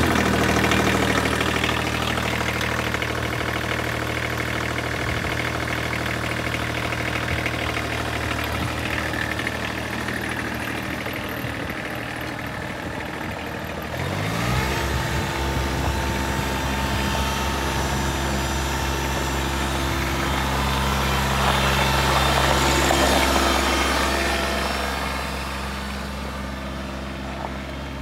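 Kubota B7500 compact tractor's diesel engine running just after starting, idling steadily. About halfway through the revs rise smoothly and it holds at the faster speed.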